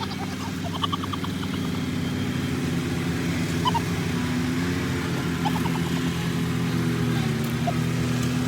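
Garden tractor engine running steadily, its pitch shifting slightly about halfway through.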